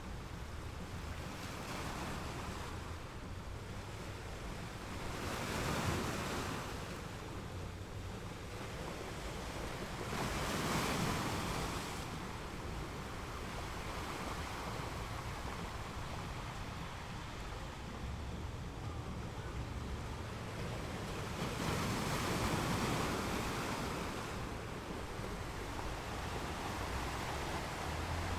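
Ocean surf washing on a shore: a steady hiss of water with a low rumble beneath, swelling louder three times as waves break.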